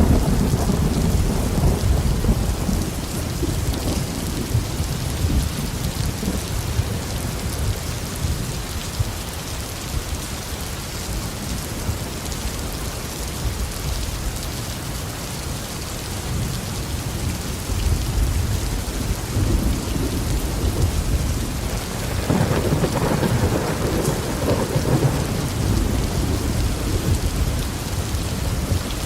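Heavy tropical rain falling steadily on a garden, with rolling thunder rumbling low underneath: it fades in the middle and swells again about two-thirds of the way through.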